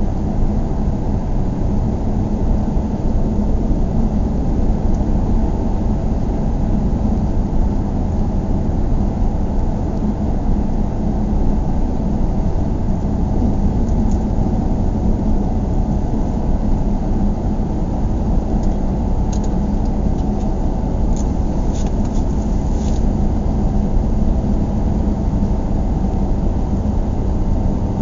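Steady car ride noise: an even, low rumble of tyres and engine while driving, with a few faint light ticks about two-thirds of the way through.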